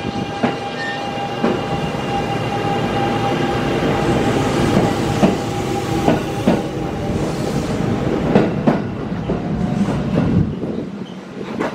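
Two-car electric local train pulling out and passing close by, its wheels clacking over rail joints in scattered clicks, with a steady whine through the first half. The sound drops away near the end as the train moves off.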